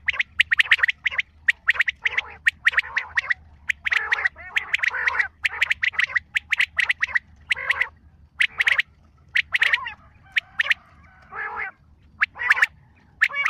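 Bird calls, a bird-call recording of the kind played to attract Chitra birds: bursts of rapid, harsh chattering notes with short pauses between them, over a faint low hum.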